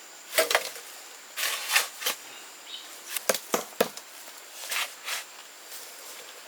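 A series of irregular short knocks and rustling swishes, about a dozen of them, with a quick cluster of three sharper knocks a little past the middle.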